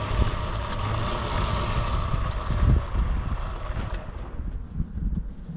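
Dirt bike engine running, with wind buffeting the microphone; the engine sound drops away about four seconds in.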